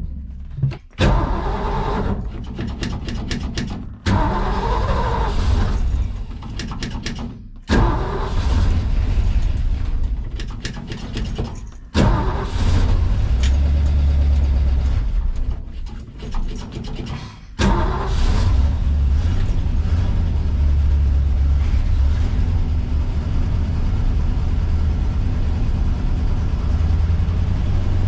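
1969 Ford Mustang's engine starting and running. The sound breaks off and picks up again suddenly several times, then runs steadily through the last third.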